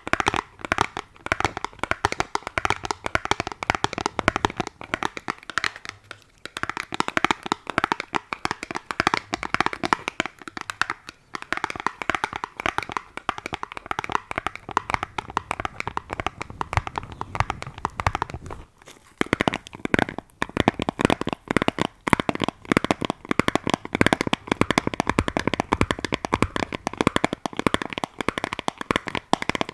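ASMR tapping: fingers tapping rapidly on objects, many quick taps a second, breaking off briefly about three times.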